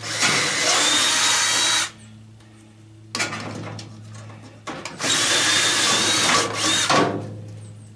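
Power drill running in two bursts of about two seconds each, with a high motor whine, driving out the screws that hold a furnace panel.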